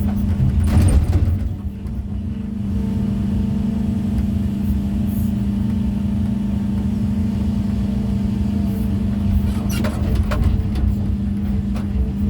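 Heavy machine's diesel engine, most likely an excavator placing stone, running steadily. Short knocks and scrapes come about a second in and again near the end.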